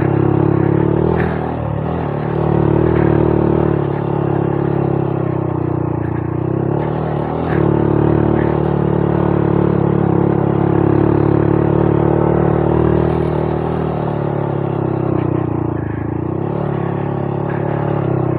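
Honda Monkey 125's single-cylinder four-stroke engine pulling under load up a rocky climb, its note rising and falling with the throttle. A few knocks sound over it.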